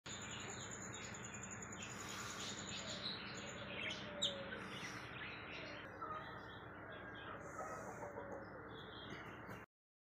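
Birds chirping over a steady background hiss, with one sharp, louder chirp about four seconds in. The sound cuts off abruptly near the end.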